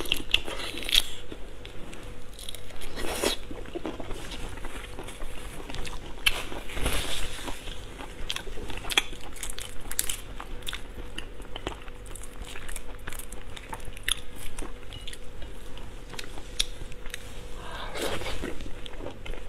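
Close-up chewing and crunching of shrimp, with sharp clicks and crackles as the shells are bitten and pulled apart by hand.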